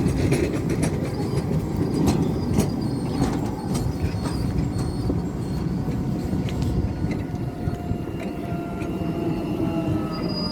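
Tram running on its rails: a steady rumble with scattered clicks of the wheels on the track. In the second half a thin whine falls slowly in pitch.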